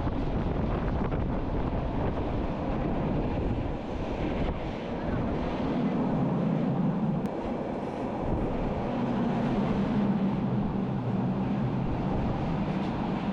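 Wind buffeting the microphone over the steady rumble of a train running along the track, heard from an open observation carriage; a low hum rises twice for a few seconds.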